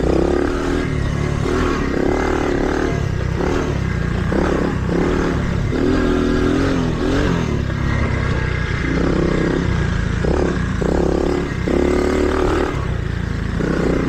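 Small mini dirt bike engine being ridden along a dirt trail, its pitch rising and falling again and again as the throttle is opened and rolled off.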